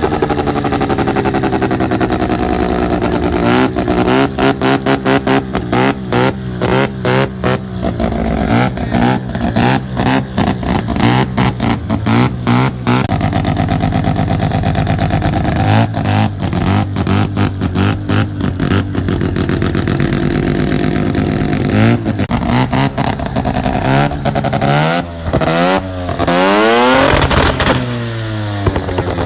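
Turbocharged rotary engine in a Mazda B2200 pickup, revved up and down repeatedly through a hood-exit exhaust. Between revs come long strings of rapid pops and bangs from the antilag, the backfires that throw flames.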